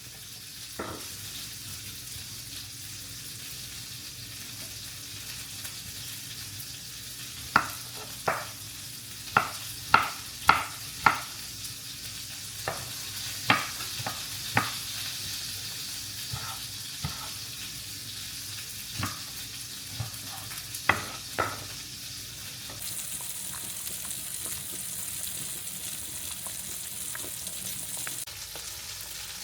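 Food sizzling in a frying pan as it is stirred, with a utensil knocking sharply against the pan about fifteen times, mostly in a run through the middle.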